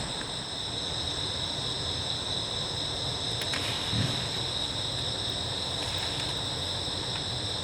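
Insects, crickets or similar, chirping in a steady chorus of high-pitched tones. There is a faint low knock about four seconds in.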